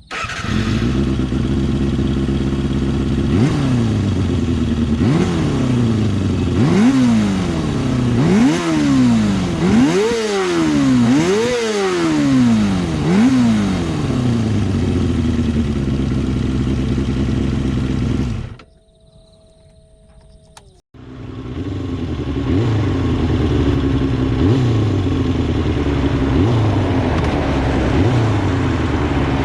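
Kawasaki Balius II 250 cc inline-four with an RPM New 4-into-2-into-1 aftermarket exhaust, under way: the revs climb and fall back again and again in quick succession, then hold steadier. The sound drops out for about two seconds past the middle, then the engine runs on at a fairly even pace with small regular dips.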